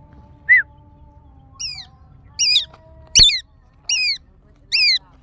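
A bird calling repeatedly: a run of short, sharp, downward-slurred calls, roughly one a second, starting a little way in. One sharp knock sounds in the middle of the series.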